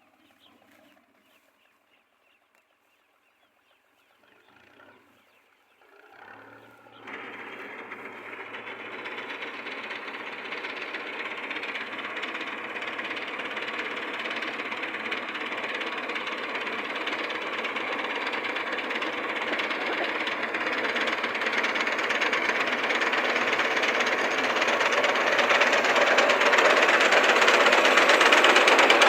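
Tractor engine starting about seven seconds in and running steadily, growing gradually louder toward the end.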